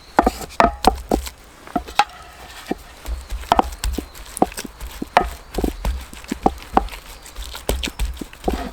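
A series of irregular knocks and thuds, roughly two a second, some with a short ringing note.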